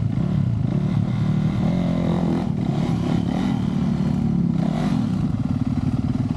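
Dirt bike engine running hard on a trail, its pitch climbing and dropping as the throttle is worked, mostly between about two and three and a half seconds in.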